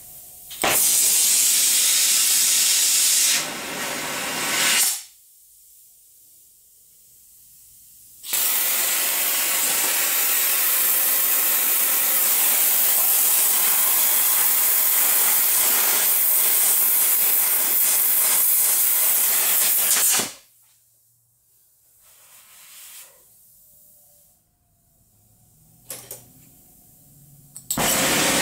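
Gas torch flame hissing steadily as it heats a seized exhaust manifold stud toward cherry red to free it from the cast iron. It runs in three stretches: briefly near the start, a long spell of about twelve seconds in the middle, and again right at the end, with quiet gaps between.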